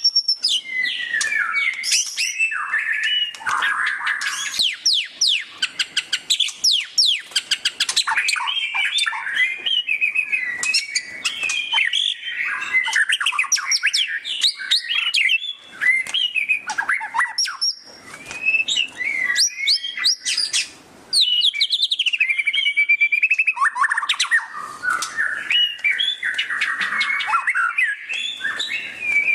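White-rumped shama (murai batu) singing a loud, fast chattering 'ngeriwik' song of rapid trills and quick sweeping whistles, broken by a brief pause about two-thirds of the way through.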